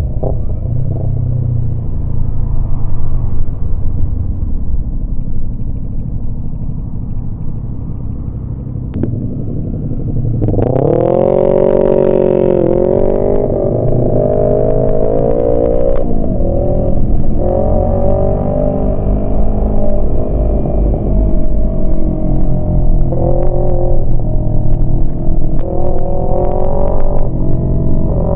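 Yamaha MT-25's parallel-twin engine under way at low revs with a steady rumble. About ten seconds in it revs up sharply, its pitch rising, then runs on at higher revs with the pitch rising and falling.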